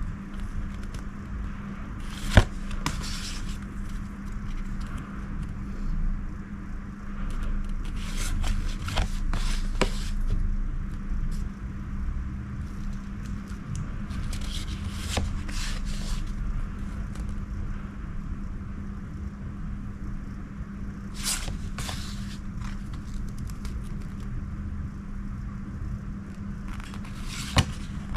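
Paper cards and plastic packaging being handled: irregular scraping and crackling rustles with a few sharp clicks, over a steady low hum.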